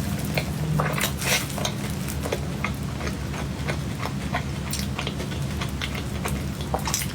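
Cutlery clicking and scraping on a plate as cake is eaten, in quick irregular clicks, over a steady low hum.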